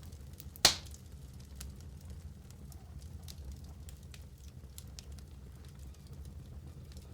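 Wood fire burning in a fireplace: a steady low rumble with scattered small crackles and pops, and one loud sharp crack about a second in.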